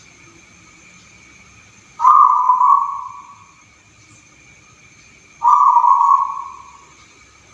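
Zebra dove (perkutut) cooing its song twice, each call starting abruptly and tailing off over about a second and a half.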